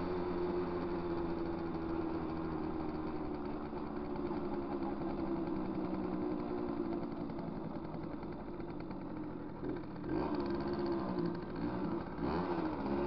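Small motorcycle engine running while under way, heard from the rider's position. Its note holds steady for about ten seconds, then wavers and grows louder as the throttle changes, and shifts again near the end.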